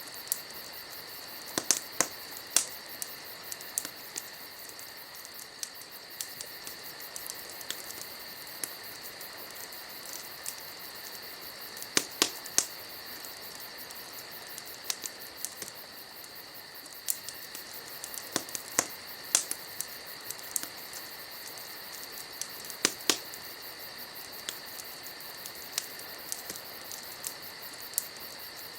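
Wood fire crackling, with sharp irregular pops that come in small clusters, over a steady high trilling of insects.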